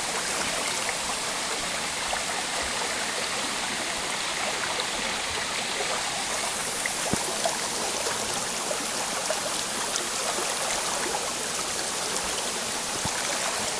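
Small forest waterfall and stream: water rushing and splashing steadily.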